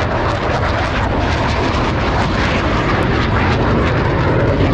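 Loud, steady jet noise from Blue Angels F/A-18 Hornet-family fighters flying by at an airshow, with a crackling edge to the sound, growing slightly louder near the end.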